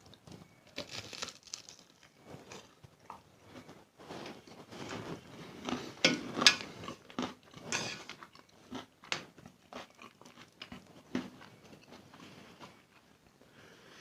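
Close-miked eating of spicy instant noodles: irregular chewing and biting mouth sounds, loudest about six seconds in.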